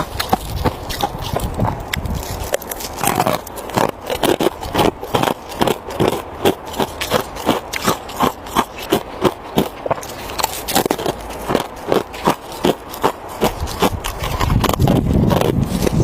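Hard ice being bitten and chewed close to the microphone: a run of sharp crunches, about two or three a second for much of the time.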